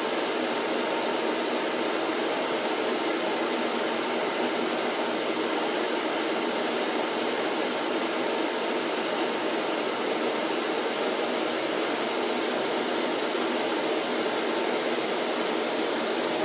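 Vacuum cleaner running steadily: a constant rushing noise that keeps the same pitch and loudness throughout.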